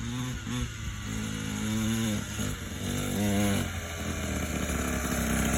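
Dirt bike engine running, revving up and down several times.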